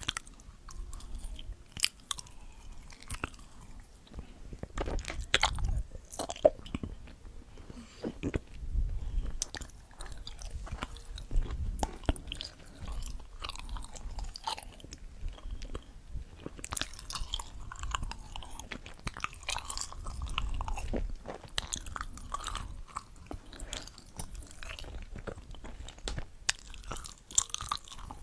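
A person chewing and biting food close to the microphone, with irregular sharp crunches throughout.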